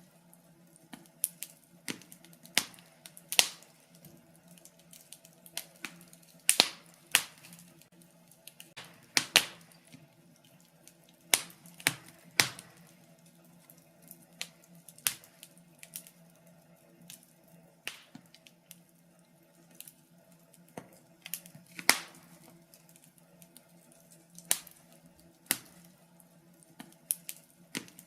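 Wood fire in a fireplace crackling, with irregular sharp pops, a few much louder than the rest, over a faint steady low hum.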